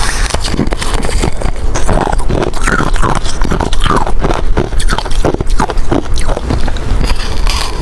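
Ice being bitten and crunched between the teeth close to the microphone: a continuous run of sharp, crackling crunches, several a second.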